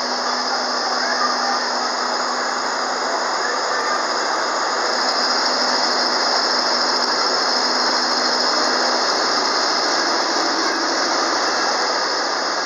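EF65 electric locomotive and 14-series passenger coaches rolling slowly past, with a steady high-pitched wheel squeal over the rumble of the wheels. A low hum stops about nine seconds in.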